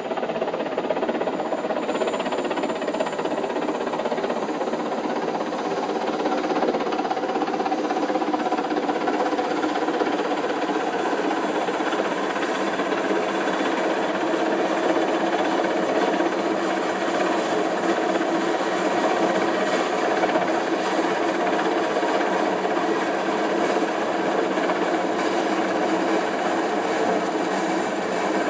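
Helicopter running steadily, a dense, unchanging mechanical drone with no let-up.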